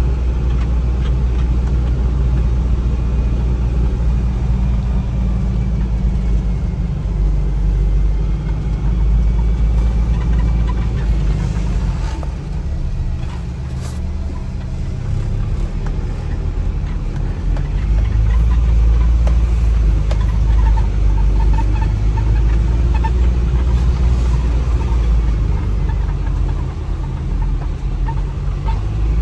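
Vehicle running with a steady low engine and road rumble, easing off briefly about halfway through and then building again.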